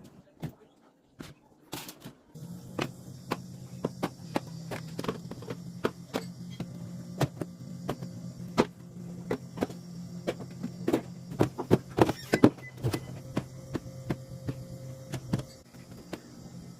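Items being handled and set down while a refrigerator is organized: a string of light clicks and knocks, densest about two-thirds of the way through. A steady low hum starts about two seconds in.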